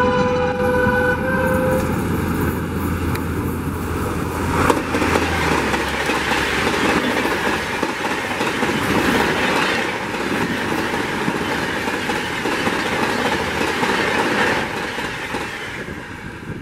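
The 12001 Bhopal Shatabdi Express passing at high speed. The locomotive's horn sounds for about the first two seconds over the hum of the approaching locomotive. The coaches then rush past in a loud, steady roar of wheels on rail that fades away near the end.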